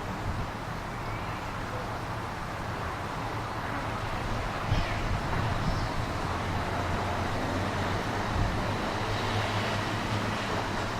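Steady low rumble of a vehicle running, with no clear rhythm, growing a little louder about four seconds in.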